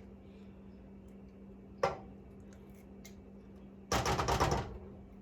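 Kitchen utensils and containers being handled: a single knock about two seconds in, then just under a second of rapid scraping and clattering. A steady low hum runs underneath.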